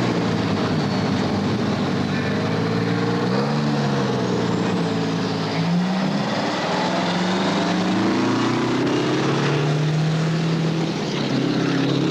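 Diesel semi-truck engines running at full throttle down a drag strip. The engine pitch climbs, then drops back several times as the trucks shift up through the gears.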